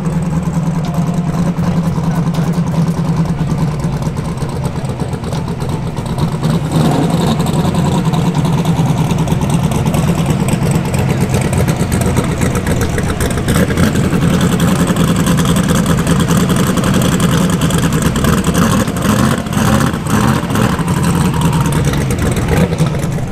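Fox-body Mustang drag car's engine idling loudly and steadily, getting louder about seven seconds in.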